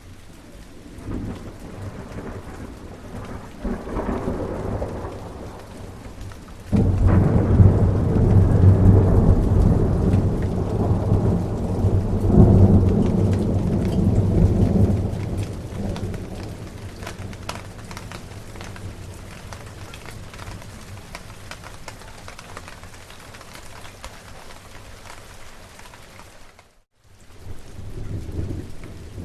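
Thunderstorm: steady rain with rolling thunder. Smaller rumbles come in the first few seconds, then a loud thunderclap starts suddenly about a quarter of the way in and rumbles for about eight seconds before fading back to rain. The sound cuts out for an instant near the end, and another rumble follows.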